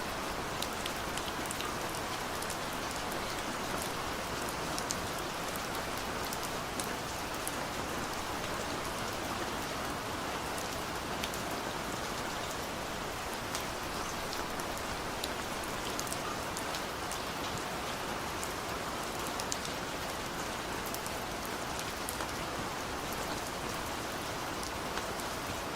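Heavy rain pouring steadily, a dense hiss with many individual drops ticking sharply against a surface.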